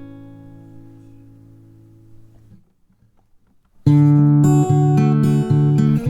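Background acoustic guitar music: a chord rings out and fades away, a short pause follows, and the guitar comes back in louder with plucked notes and chords about four seconds in.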